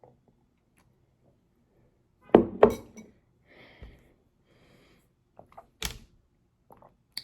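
Objects being handled and set down on a hard surface: two knocks close together, a few soft scuffs, then a sharp clink.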